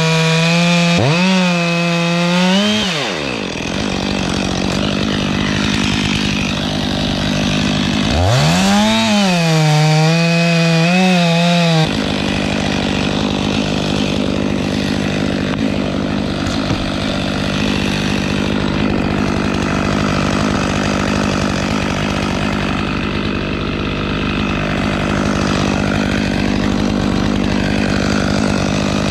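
Stihl MS 500i chainsaw revving up and down twice during the first twelve seconds, then held at steady high revs with a rough, noisy sound for the rest, typical of the chain running through the cedar spar's wood.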